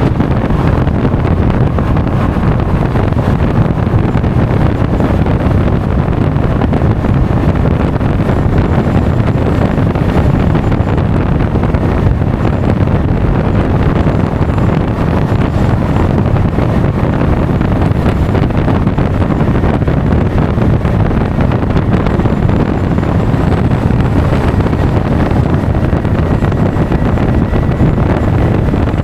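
Steady wind noise buffeting the action camera's microphone on a moving Honda Forza 350 scooter, with the scooter's running and road noise underneath.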